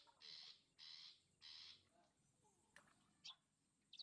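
A bird giving harsh, rasping calls three times in quick succession, then a few short high chirps in the second half.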